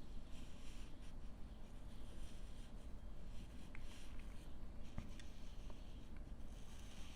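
Fine-point marker drawing on paper: a few short, faint scratchy strokes as it traces outlines, over a steady low room hum.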